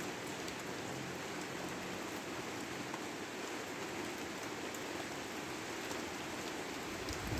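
Steady rain falling, an even hiss of drops with a few faint ticks.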